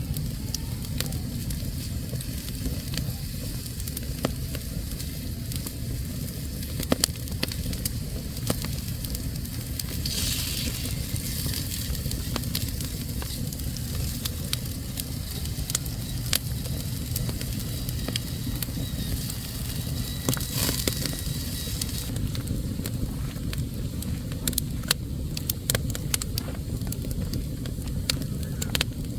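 Wood fire burning in a fireplace: irregular sharp crackles and pops over a steady low rumble, with a hiss of escaping steam or sap twice.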